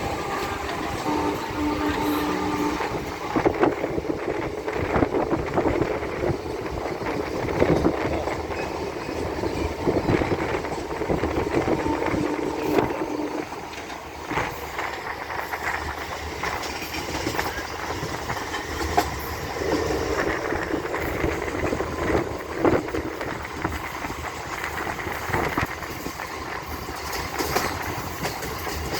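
Pataliputra Express passenger train running at speed, heard from aboard: a continuous rumble and rattle, with irregular sharp clacks from the wheels over the track.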